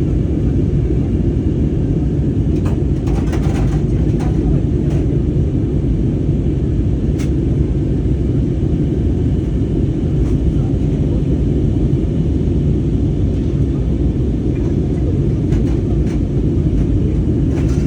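Steady low rumble of an airliner's cabin in flight: engine and airflow noise. A few faint clicks come about three to five seconds in.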